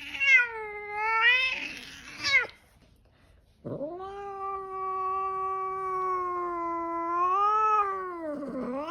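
Bengal cat yowling angrily: a wavering call that turns rough, a short pause, then one long drawn-out yowl of about four and a half seconds, followed by another harsh, rough sound near the end.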